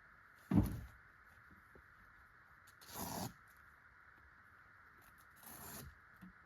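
Camping gear being handled: a thump about half a second in, then two short rustling scrapes, over a steady faint hiss.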